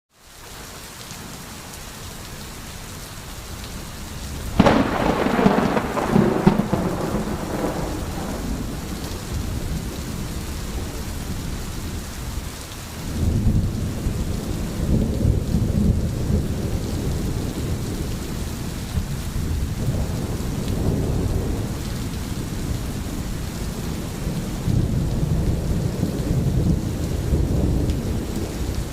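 Rain fading in from silence, then steady rain with thunder. A sharp thunderclap about four and a half seconds in rumbles off over a few seconds, and long low rolls of thunder follow from about thirteen seconds on.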